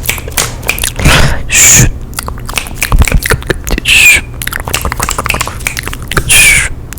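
ASMR mouth sounds close to the microphone: a rapid run of wet clicks and smacks, with three louder hissing, sucking sounds, about a second in, around four seconds and near the end.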